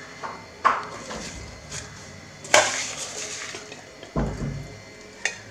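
Mixer grinder jars and their parts being handled and set down: about half a dozen separate knocks and clinks, spaced irregularly, the loudest about two and a half seconds in.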